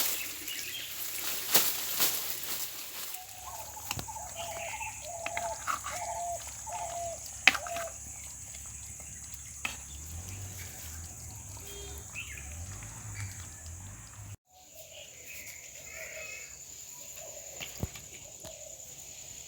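Outdoor ambience: a bird or fowl gives a run of about six short repeated calls, over a steady high insect whine, with scattered knocks and clicks in the first few seconds.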